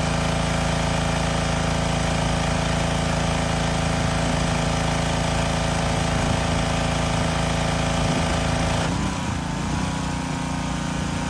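Pressure washer running steadily while spraying foam from a foam cannon. About nine seconds in, its note wavers and settles lower, and it gets slightly quieter.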